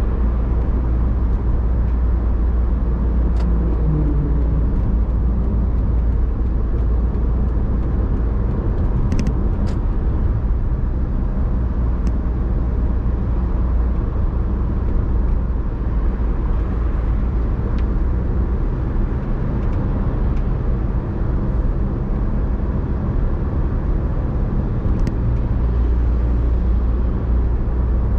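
Car being driven, a steady low rumble of engine and road noise with a few faint short clicks.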